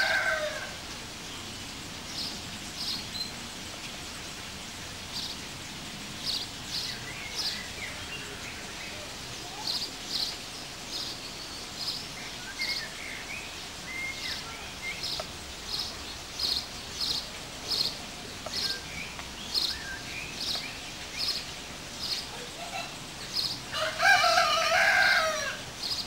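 A small bird chirping over and over, short high chirps about one or two a second, with other birds twittering now and then. Near the end a large fowl gives one loud drawn-out call about a second and a half long.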